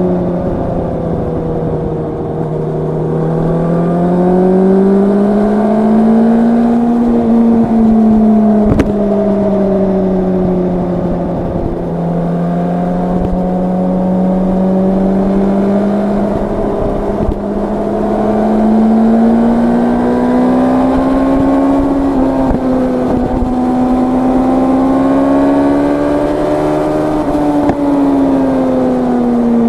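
Yamaha R1's crossplane inline-four running at a steady cruise, its pitch rising and falling gently over several seconds with easy throttle changes and no hard revving, with wind noise on the microphone. A single sharp click about nine seconds in.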